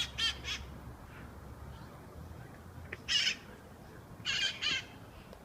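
Feral green-and-red-headed conures (wild parrots) screeching harsh, raspy calls. There is a quick run of three at the start, a single loud call about three seconds in, and another quick run of three near the end.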